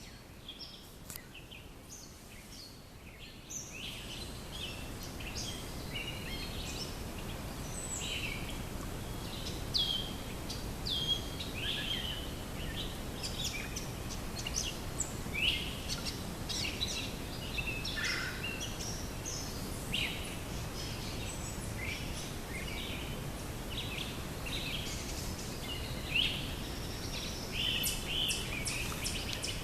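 Songbirds chirping and calling, many short calls one after another, over a steady low background noise. A quick run of sharp clicks comes near the end.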